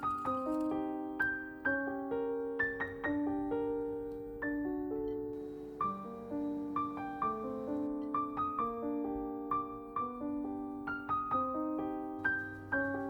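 Background piano music: a gentle melody over chords, notes struck and fading.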